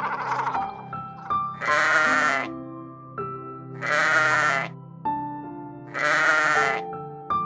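Sheep bleating three times, about two seconds apart, each call a wavering bleat just under a second long, over background music.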